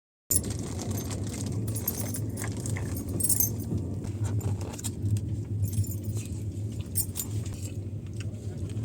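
Passenger train coach heard from inside while running: a steady low rumble with frequent light metallic rattling and clinking. It starts abruptly a moment in.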